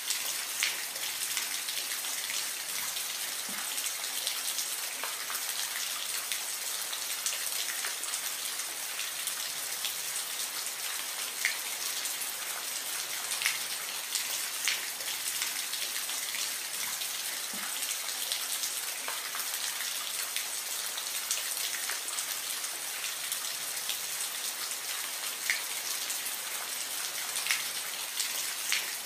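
Steady rain falling: an even, dense hiss with scattered louder single drops ticking out at irregular moments.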